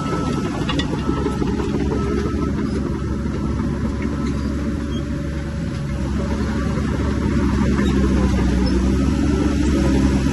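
Diesel engine of a heavy earth-moving machine running steadily, growing louder with its revs rising after about six seconds, with a few light clicks over it.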